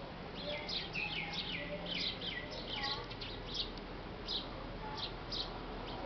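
Small songbirds chirping: a rapid string of short, high, downward-sliding chirps, several a second over the first half, thinning to scattered single chirps later.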